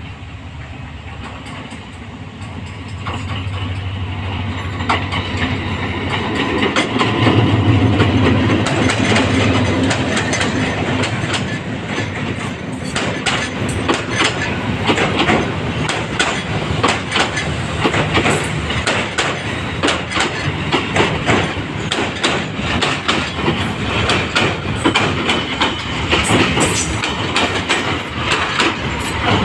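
Diesel-hauled passenger train passing close by: the locomotive's engine hum grows over the first several seconds, then the coaches' wheels clatter over the rail joints in a quick, irregular clickety-clack.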